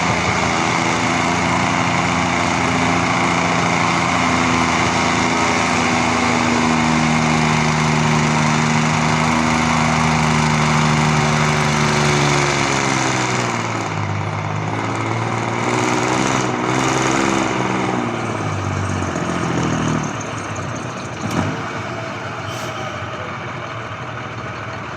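Scammell's heavy diesel engine working hard on a tractor-pulling sledge: it holds a steady high note at first, then its revs sag and waver up and down under the load, and about twenty seconds in it falls away to a lower, quieter run. A single short knock follows soon after.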